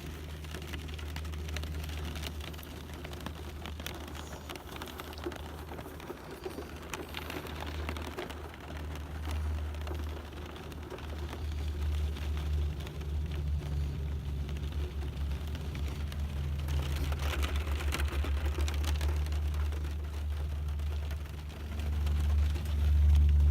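Rain falling, a dense patter of many small drop clicks over a hiss, with a steady low rumble underneath. It grows louder near the end.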